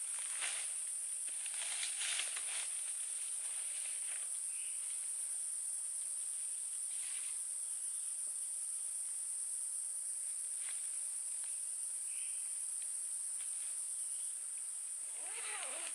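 Steady high-pitched drone of insects in the forest, unbroken throughout, with a few brief soft rustles or handling noises near the start, around the middle and near the end.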